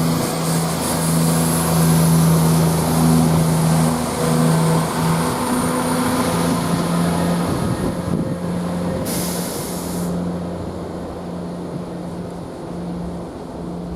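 CrossCountry Class 170 Turbostar diesel multiple unit pulling out, its diesel engines running with a steady low drone that fades over the last few seconds. A short hiss of air comes about nine seconds in.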